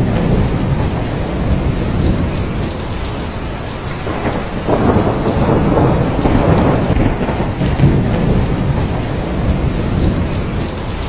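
Heavy rain falling steadily, with rolling thunder rumbling under it and swelling a few seconds in.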